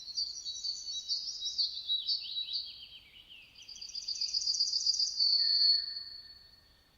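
A songbird singing two quick trilled phrases of rapid, repeated high notes, the second phrase ending in a drawn-out high note.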